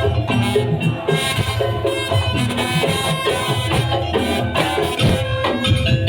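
Madurese daul (tong-tong) percussion ensemble playing: a dense, steady drum rhythm with a pitched melody running over it.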